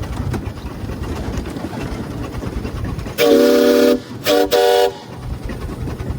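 Stanley Steamer's steam whistle blown once long and then twice short, each blast several steady tones at once, over the car's low running rumble.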